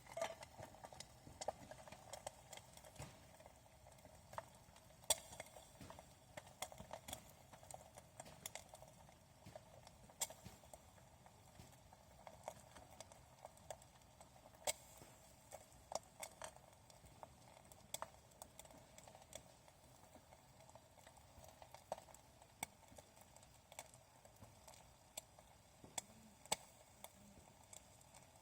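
Campfire of burning wood crackling quietly, with sparse, irregular sharp pops.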